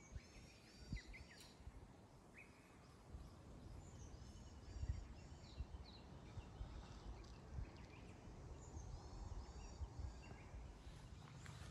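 Songbird singing faintly, a phrase of quick, high, repeated falling notes heard three times, over an irregular low rumble with a louder bump near the middle.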